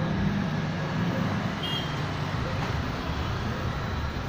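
Steady traffic noise from passing road vehicles, with a short high-pitched tone about one and a half seconds in.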